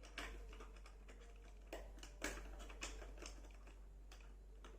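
Plastic clicks and taps from fitting the battery cover on an MD 4030 metal detector, about six separate clicks spread over a few seconds.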